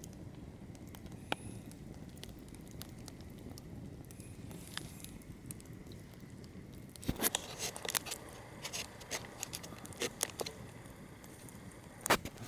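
Wood campfire burning with a low steady rush, crackling and popping; the pops come thick and fast from just past the middle, with a sharp snap near the end.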